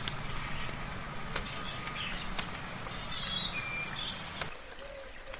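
Several birds chirping and giving short whistles over a steady hiss of light rain, with scattered sharp drip-like clicks. A low background rumble stops about four and a half seconds in.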